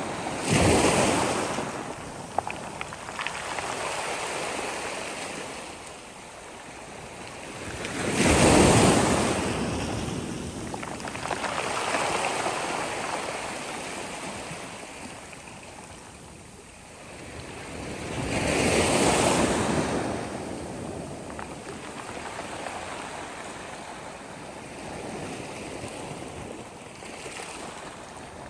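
Sea waves breaking and washing up the shore, with three bigger breakers about ten seconds apart: just after the start, about eight seconds in and about nineteen seconds in, and softer wash between them.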